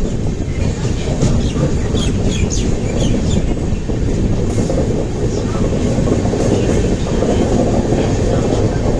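Rajdhani Express passenger train running on the rails as it picks up speed: a loud, steady rumble of wheels on track, with a run of short clicks about two to three seconds in.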